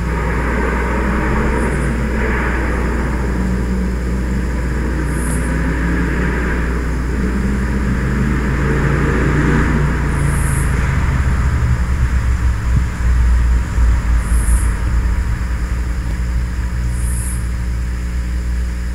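A motor vehicle, taken for the loud truck driving past, with rough engine noise over a low rumble that fades about ten seconds in.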